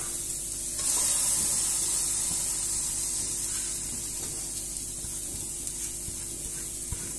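Grated coconut beginning to roast in a little coconut oil in a metal pot, a steady sizzling hiss that swells about a second in and then slowly eases.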